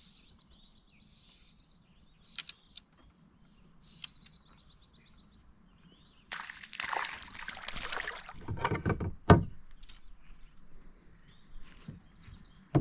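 Water splashing and sloshing with knocks against the canoe, starting suddenly about six seconds in and loudest around nine seconds, as a hooked fish is played and brought in. Before that, a faint fast buzzing trill comes twice.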